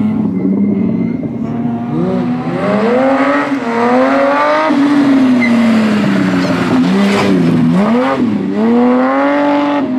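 Rally car engine revving hard, its pitch climbing and dropping as it shifts up through the gears. About seven seconds in, the revs dip sharply twice as it lifts off and changes down, then climb again.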